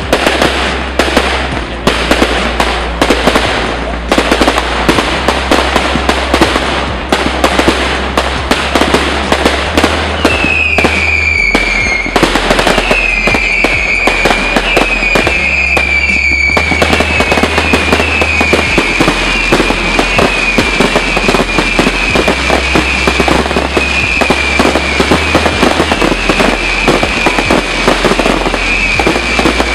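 Fireworks display firing in rapid succession: a dense, continuous string of bangs and crackles. From about a third of the way in, a high wavering whistle repeats about once a second over the bangs.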